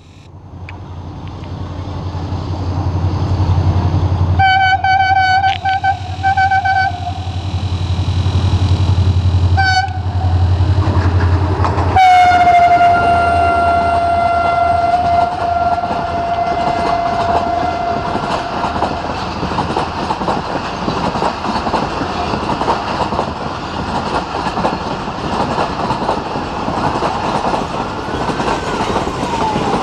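Pakistan Railways HGMU-30 diesel-electric locomotive approaching, its engine running with a low hum and its horn sounding several short blasts, then one more. It then gives one long horn blast as it comes by, followed by the steady rolling rumble and clickety-clack of the train's wheels over the rail joints.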